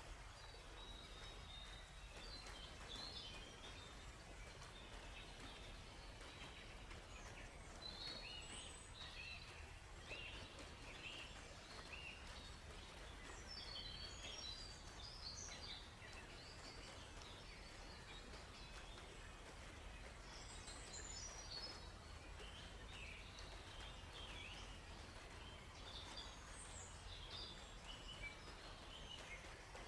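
Songbirds chirping faintly in scattered clusters of quick, high twitters, several seconds apart, over a steady low background hiss.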